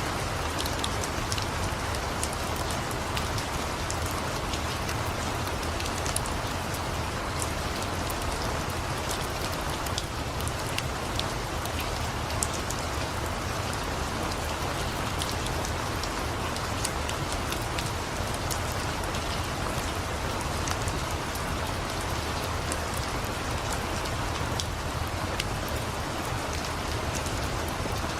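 Steady rain, an even hiss, mixed with scattered small sharp crackles from a wood fire burning in a fireplace.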